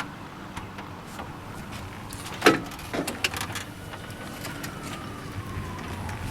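A sharp knock about two and a half seconds in, then a few lighter clicks, over a low steady hum, with a faint tone that rises and then slowly falls in the second half.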